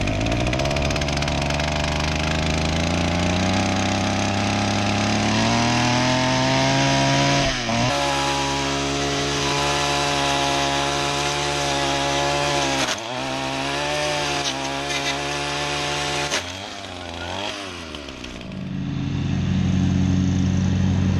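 Small two-stroke weed whacker engine running after being pull-started, revving up over the first few seconds and holding high with a few brief dips in speed. Near the end it gives way to a lower, steady engine hum.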